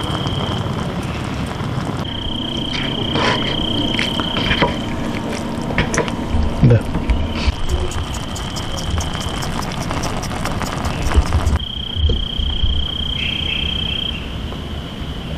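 Forest insects chirring in a steady high tone over a low rumble. The tone drops out and returns several times, with abrupt changes where the footage is cut.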